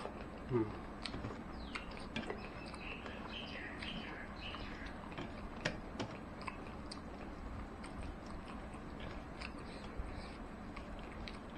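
A person chewing a mouthful of rice and fried egg in soy sauce, eaten by hand, with wet mouth clicks and smacks scattered throughout. A brief low sound about half a second in is the loudest moment.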